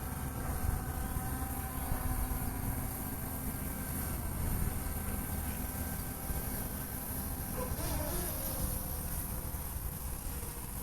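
Wind rumbling heavily on the microphone, with a faint steady hum from the departing mapping drone's propellers that fades over the first few seconds, and a steady high chirring of insects.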